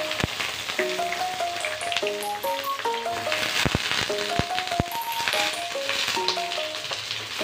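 Brinjal (eggplant) pieces frying in hot mustard oil in a kadhai, a steady sizzle with small crackles and pops from the freshly added pieces. A simple melody plays in the background.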